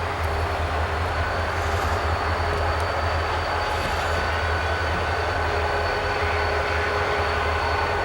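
Freight train rolling by with a steady low rumble and a thin, steady high whine running through it.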